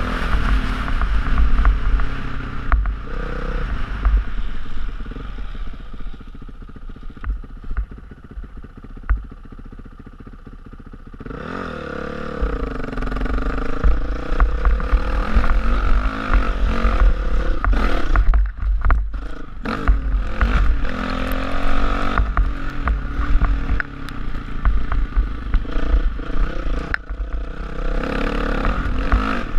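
Honda CRF450R single-cylinder four-stroke dirt bike engine revving up and down while riding, with wind rumbling on the microphone and clatter of the bike over rough ground. About a third of the way in the engine eases off for several seconds, then revs up again and keeps rising and falling.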